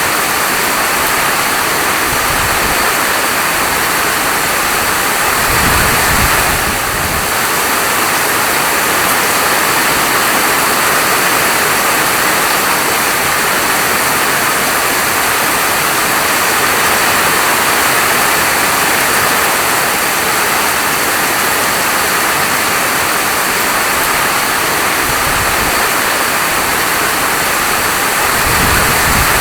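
Heavy, steady rainfall: a dense, even hiss, with a few short low rumbles breaking through.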